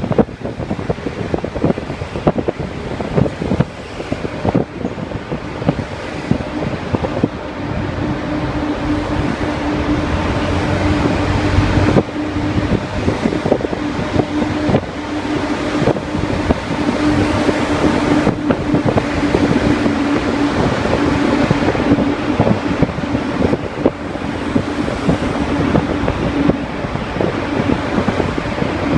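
Car in slow traffic: engine and road noise with wind buffeting the microphone, and a steady hum through most of the middle.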